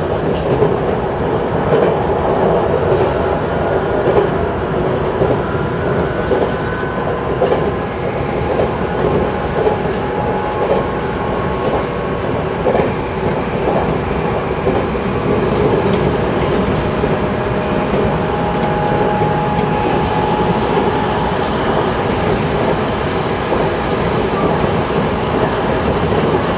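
Electric train running steadily along the line, heard from inside the front car behind the cab. A steady rumble of wheels on rail carries the occasional click of a rail joint and faint whining tones.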